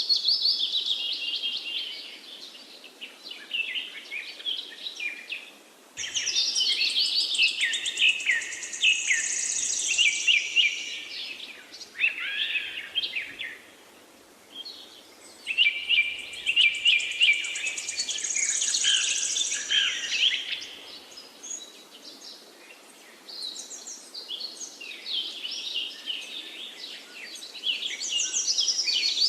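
Songbirds singing in bouts of rapid chirps and trills, several seconds each with short pauses between, over a faint steady hiss.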